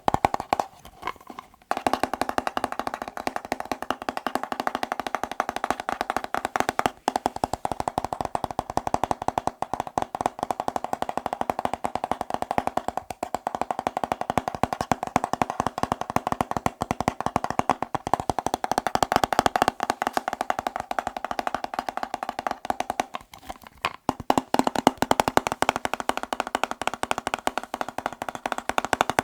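Fast fingertip tapping on hard objects: a dense, rapid stream of taps with a resonant, wood-block-like ring, pausing briefly about a second in and again near 23 seconds.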